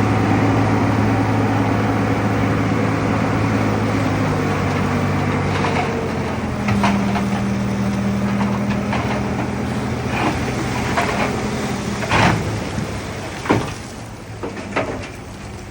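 Heavy earthmoving machine's diesel engine running steadily, its note changing about six seconds in and dying away over the last few seconds, with a series of sharp clanks and knocks in the second half.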